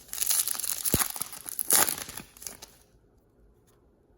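A trading-card pack wrapper being torn open and crinkled by hand, a dense crackling that stops about three seconds in.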